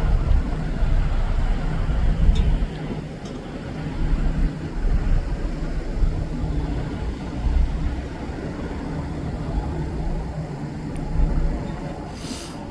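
Wind rumbling on the microphone over the steady low hum of an idling diesel locomotive, with a short hiss near the end.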